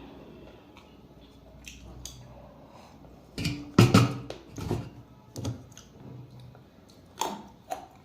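Close-miked eating sounds: a string of sharp clicks and crunches from chewing and utensils on a plate, the loudest cluster a little over three seconds in.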